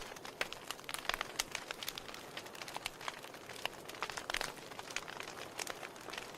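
Wood fire in a fireplace burning steadily, logs crackling with frequent irregular sharp pops and snaps over a soft hiss.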